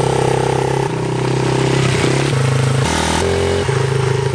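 Small single-cylinder engine of a Yamaha TT-R50 mini dirt bike running, its pitch shifting in abrupt steps several times.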